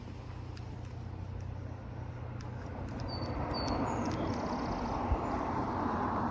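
A car passing on the street, its tyre and engine noise swelling over the last few seconds. Two short, high bird chirps about three seconds in.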